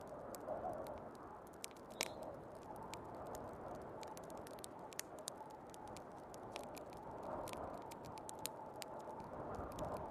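A wood fire crackling, with frequent sharp pops and one louder pop about two seconds in, over the steady wind of a snowstorm that swells and eases.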